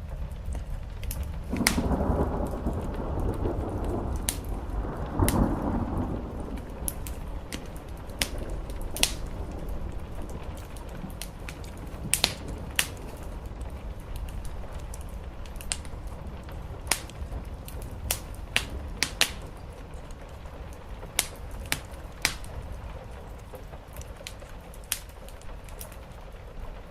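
Steady rain with a wood fire crackling, its sharp pops scattered irregularly. A rumble of thunder swells about two seconds in, peaks again a few seconds later and dies away.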